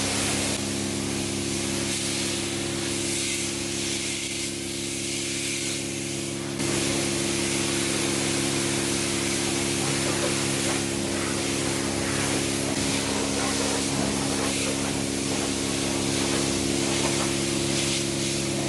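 High-pressure wand at a coin-operated self-service car wash spraying rinse water onto a car: a steady hiss over the drone of the wash pump, a little quieter at first and louder again about six and a half seconds in.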